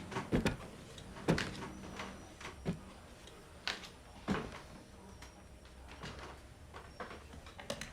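Scattered soft knocks and clicks, several over a few seconds at irregular gaps, over low room noise.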